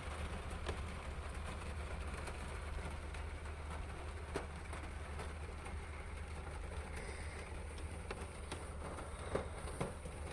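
Rain falling: a steady hiss with occasional sharp drips striking close by, over a steady low rumble.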